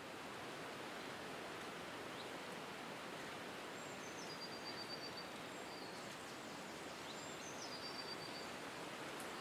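A small songbird's high, thin calls, twice, each stepping down in pitch and ending in a quick run of repeated notes, over a steady outdoor hiss of rustling or distant noise.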